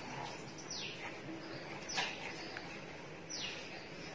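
A bird chirping in the background: four short, falling chirps, about one every second or so. A light knock comes about two seconds in.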